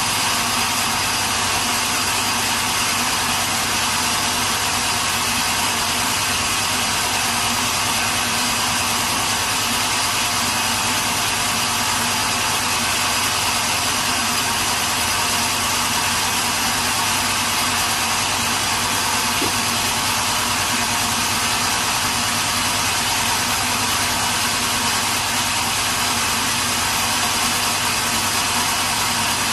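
Sawmill machinery running steadily: an unchanging mechanical hum under a strong hiss.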